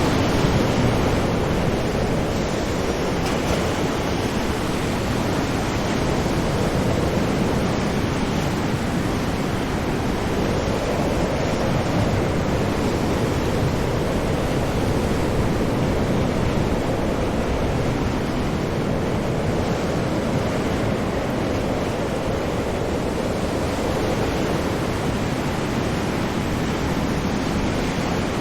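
Ocean surf: waves breaking and washing on a shore in a steady, dense roar of water with slow swells in level.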